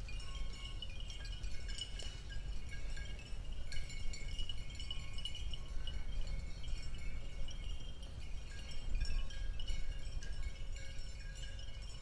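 Birds chirping and twittering in many short high notes, over a steady low rumble of wind on the microphone.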